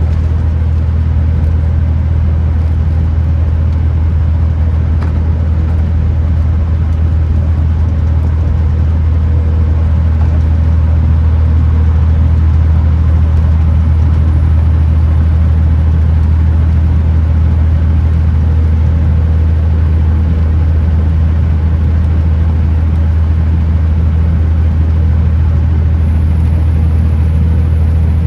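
Kenworth T909 truck driving at a steady speed: a loud, unbroken low engine and road drone, with a faint high whine that rises slightly about ten seconds in and then holds.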